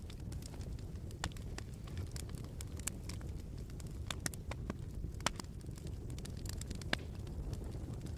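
Wood fire crackling in a fireplace: irregular sharp pops and snaps over a steady low rumble, with a couple of louder pops near the middle.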